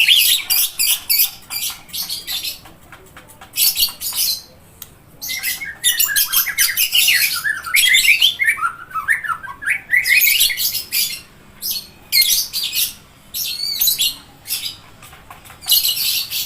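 White-rumped shama singing: bursts of rapid, varied high notes separated by short pauses, with a longer phrase in the middle that runs down in pitch.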